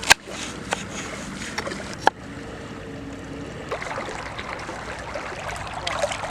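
Two sharp knocks about two seconds apart and a few lighter clicks, over a steady rushing noise that grows fuller in the second half.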